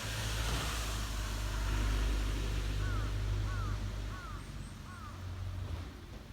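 A low, steady rumble that swells and then fades away, with a bird giving four short arching calls about half a second apart midway through.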